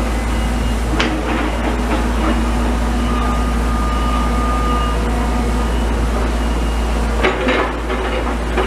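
Demolition machinery working: a steady diesel engine rumble and hum, with sharp knocks of rubble or metal about a second in and again near the end.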